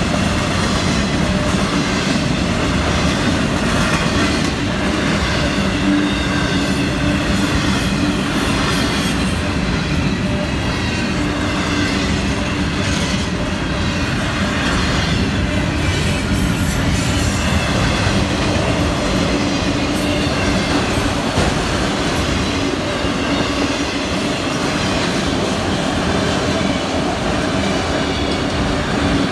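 Florida East Coast Railway freight cars rolling steadily past, their wheels clattering over the rail joints, with a couple of brief high-pitched wheel squeals.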